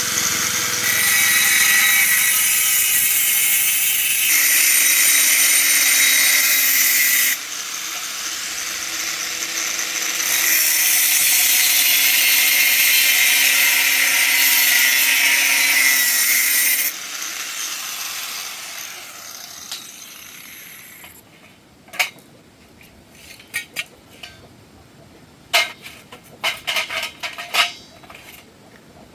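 Electric power tool cutting or grinding iron in three long loud spells of hissing noise. After that come scattered light metallic clicks and clinks near the end.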